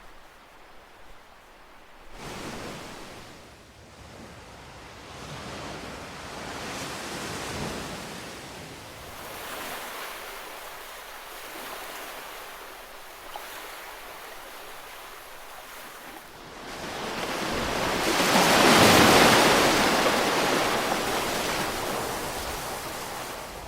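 Ocean waves breaking on a shore: a quiet lull, then surf washing in one swell after another, with the biggest wave breaking and crashing about three-quarters of the way through before it washes out.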